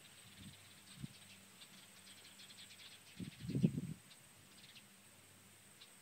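Distant birds chirping in quick runs of short, high notes. A brief low rustling burst, the loudest sound, comes about halfway through.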